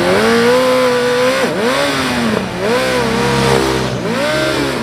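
Dirt bike engine revving hard, the pitch climbing, holding and dropping back about four times.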